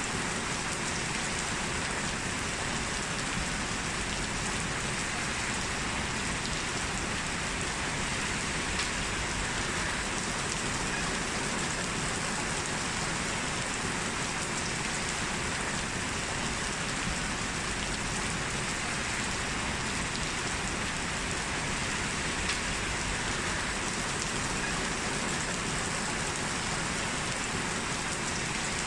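Heavy rain falling steadily: a dense, even hiss of rain on surfaces with a few faint drop ticks.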